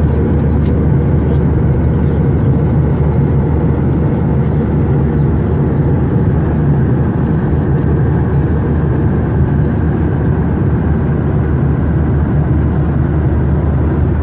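Steady in-flight cabin noise aboard a Boeing 737-900ER: the even roar of its CFM56-7B engines and the airflow past the fuselage, with a low hum under it and no change in pitch or level.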